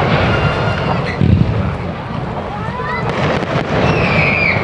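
Firework display going off: booming bursts and a continuous low rumble, one sharper bang about a second in, with crowd voices mixed in and a high shout or squeal near the end.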